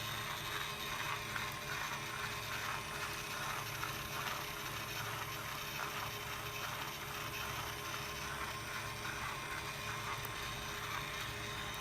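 Homemade wood-fired steam engine running, with a steady, rapid mechanical clatter and a faint steady whine.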